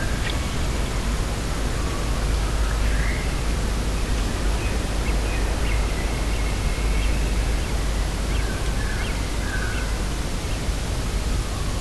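Steady wind noise with a low rumble, with faint short bird calls scattered through it.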